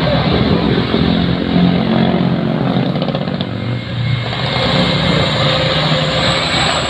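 Heavy box truck's engine running steadily under load as it climbs, with a brief dip about four seconds in.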